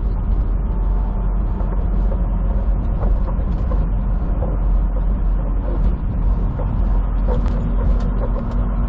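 Steady in-cab rumble of a semi truck on the road: engine and road noise droning low and even, with small rattles and ticks from the cab.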